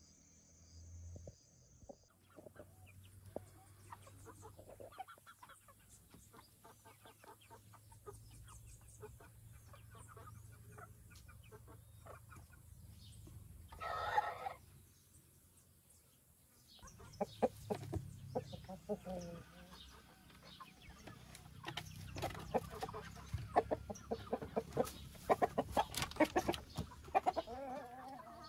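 Chickens clucking, with one short louder call about halfway through and busier clucking in the last ten seconds.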